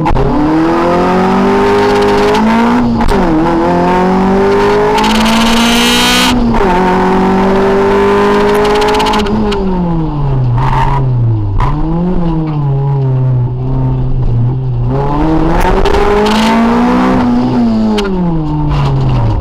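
Rally car engine heard from inside the cabin, revving hard from the stage start and climbing through the gears, with quick upshifts about three and six seconds in. In the second half the revs fall and rise again several times.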